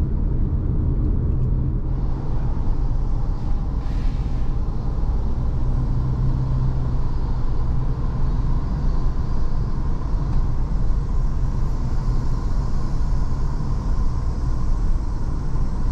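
Steady road noise of a car being driven: low engine and tyre rumble.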